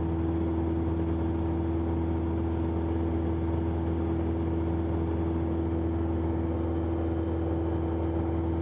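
Cessna 172's piston engine and propeller at full climb power, a steady, unchanging drone heard from inside the cabin.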